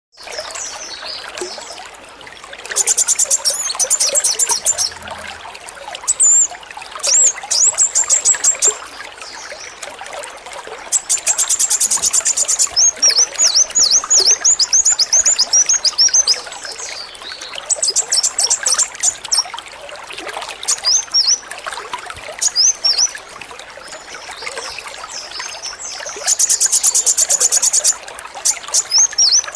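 Kolibri wulung sunbird singing its rapid-fire 'AK-47' song. Dense, very fast high trills in several bursts alternate with runs of quick, sharp down-slurred chirps, over steady trickling water.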